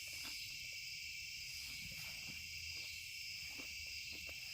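Steady night chorus of crickets: an unbroken high-pitched trilling in several bands, with a few faint scattered clicks.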